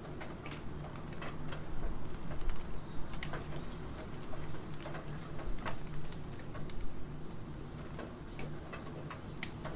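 Computer keyboard typing, keys clacking irregularly and quickening in the middle, over a steady background of falling rain.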